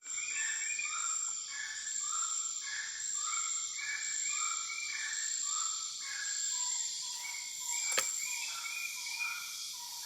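Gray-cowled wood rail (saracura-três-potes) calling: a run of loud, repeated ringing notes in stepping phrases, over a steady high drone of evening insects. A single sharp click about eight seconds in.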